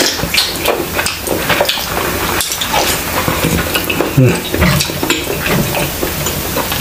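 Close-miked chewing and wet mouth smacking from a bite of battered chile relleno: a steady run of many small crackly clicks.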